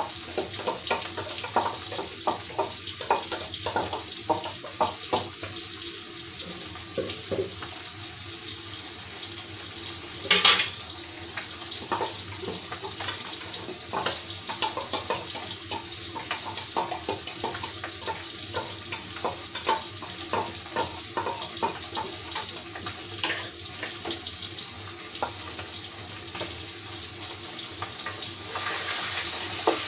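Water running from a kitchen tap into a sink, with repeated short splashes and clinks of things being handled under it, and one louder knock about ten seconds in.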